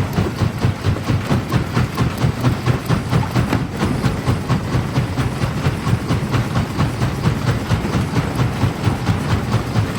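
Jaw crusher running, with a heavy even pulse about three times a second and many sharp cracks of stone breaking between the jaws.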